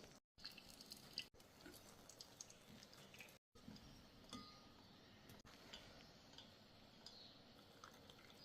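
Near silence: faint ambience with scattered light clicks and ticks, dropping out to dead silence twice for a moment.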